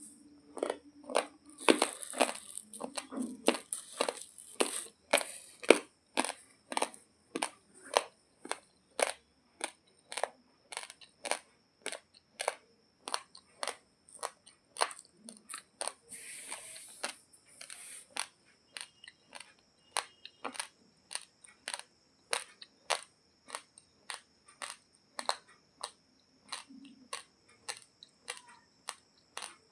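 Raw, uncooked basmati rice being chewed: sharp crisp crunches at a steady pace of about two a second as the hard grains crack between the teeth.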